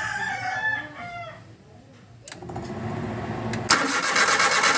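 Chickens clucking, then the Suzuki F6A three-cylinder engine turned over on its starter, the cranking becoming much louder and rhythmic near the end, as the car that cranks but won't start is tried after its distributor has been refitted.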